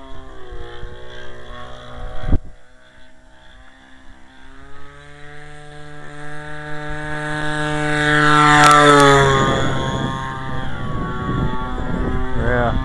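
Giant-scale RC plane's converted 30cc Homelite string-trimmer gasoline engine running at high revs in flight, getting louder as the plane comes close about eight seconds in, then dropping in pitch as it passes. Wind buffets the microphone after the pass.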